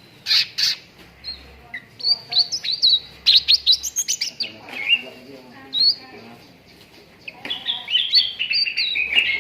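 Cucak ranting singing a lure song of quick high chirps and trills, in bursts with short pauses between them.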